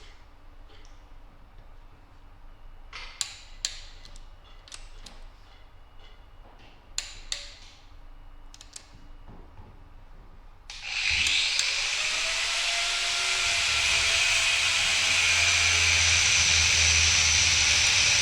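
Sharp ratchet clicks from a torque wrench tightening cylinder head nuts on the engine's ARP head studs, some in quick pairs. About eleven seconds in, a loud steady hissing noise starts suddenly and keeps going, louder than the clicks.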